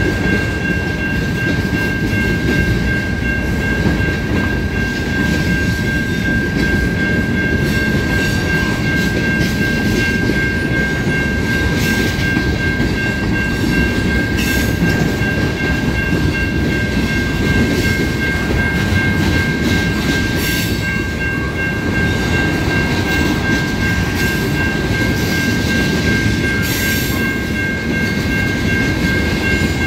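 Train rolling through a level crossing: a continuous rumble and clatter of wheels and cars over the rails, with steady high ringing tones throughout and a few sharper clanks.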